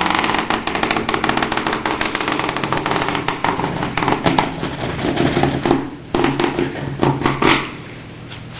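Screwdriver tip scraping hard along the inside of model tram rails, gouging wheel grooves out of filler paste: a rapid rasping in several drawn strokes that stops about a second before the end.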